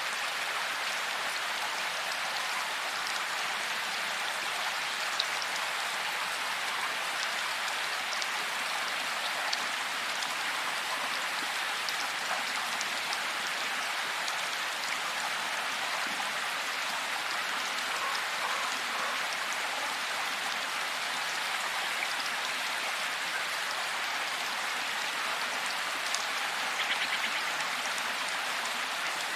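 Steady rain falling, an even hiss of drops with scattered louder individual drop ticks and a short rattle of quick ticks near the end.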